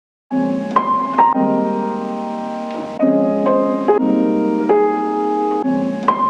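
Background piano music: sustained chords that change every second or so, starting about a third of a second in after a moment of silence.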